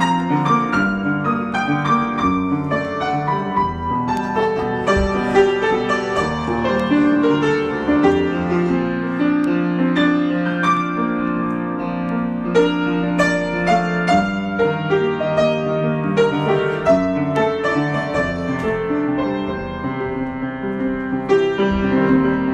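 Piano improvisation: many struck notes ringing over one another, played at an even, moderate level.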